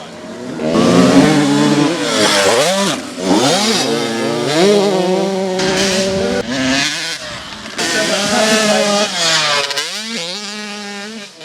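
Motocross bikes racing: engines revving up and dropping back again and again as the riders work the throttle, with one engine climbing sharply in pitch near the end.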